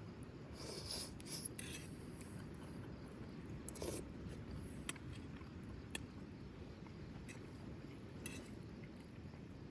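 Quiet handling sounds: short scrapes and rubs, with a few sharp single clicks, over a steady low background rumble.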